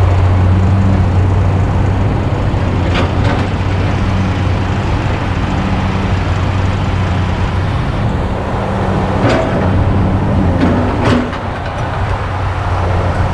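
Heavy diesel engine running steadily at a low, even pitch, with a few sharp knocks heard over it.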